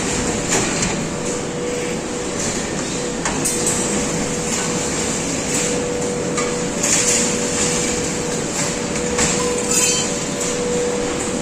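Scrap steel clanking and knocking irregularly as it is unloaded from a truck, with a few louder metallic crashes, over the steady running of machinery with a constant whine.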